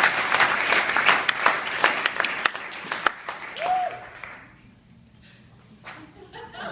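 Audience applauding, the clapping dying away about four seconds in, with a short call from one voice just before it ends.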